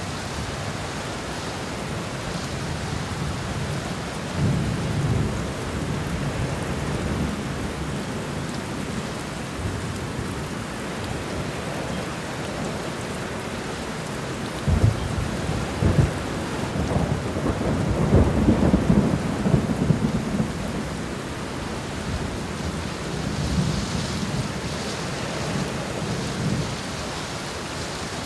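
Steady rain falling through a thunderstorm, with rolling thunder. About halfway in, two sharp thunder cracks lead into a long, loud low rumble, and softer rumbles come before and after it.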